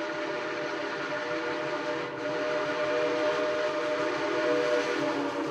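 Steam whistle of Southern Pacific 2472, a 1921 Baldwin steam locomotive, held in one long, steady blast of several tones sounding together over a hiss of steam. It grows a little louder about two seconds in.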